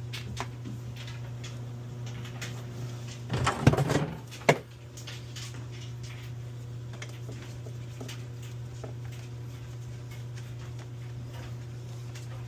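A steady low hum with scattered light clicks, broken about three and a half seconds in by a brief clatter of knocks ending in one sharp knock.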